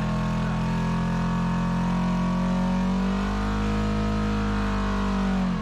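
Off-road vehicle's engine running under steady throttle. Its pitch rises slightly past the middle, then drops quickly near the end as the revs fall off.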